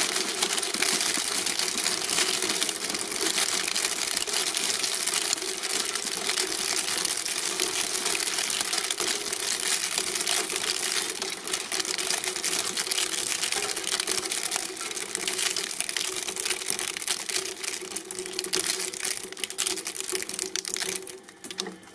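Press machine crushing something: a dense, continuous crackling over a steady machine hum, cutting off shortly before the end.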